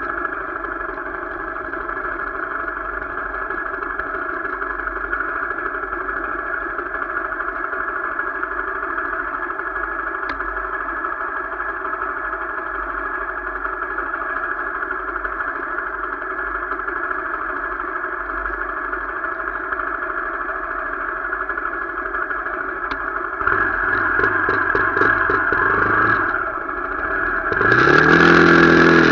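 Motorcycle engine running steadily during a ride. It grows louder about three-quarters of the way through, and louder again near the end as the engine note shifts in pitch.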